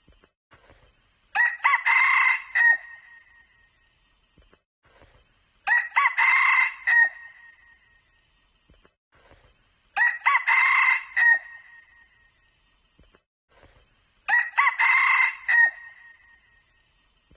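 Red junglefowl cock crowing, four clear crows at an even pace about every four seconds, each short and clipped.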